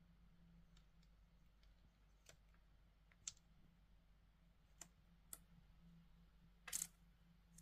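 Faint, scattered sharp clicks, about half a dozen, with a quick cluster near the end: a cockatiel's beak nibbling and picking at moss. A faint low hum sits under them.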